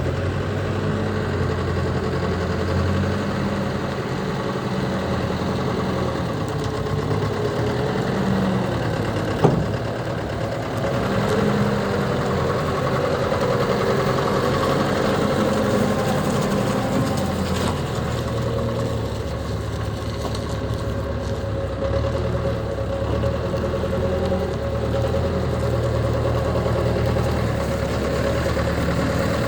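Komatsu WB93-2A backhoe loader's diesel engine running steadily, its tone shifting a little every few seconds, with one sharp knock about nine seconds in.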